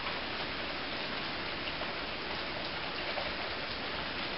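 Heavy rain pouring steadily onto concrete.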